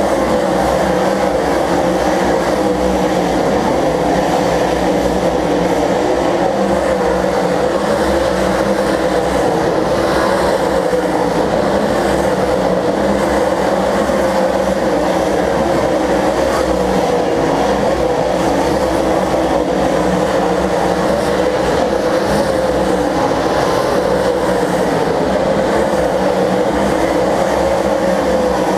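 Stock car engines racing around the oval, a loud continuous drone of several engines at once with no break.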